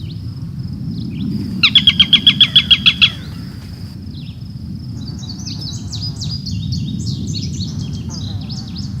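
Birds calling: a loud, rapid trill of about ten notes, then after a pause a run of quick, high twittering chirps, over a steady low background rumble.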